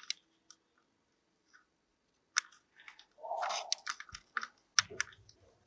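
Scattered sharp clicks and small handling or mouth noises. They are sparse at first and come thicker from about two and a half seconds in.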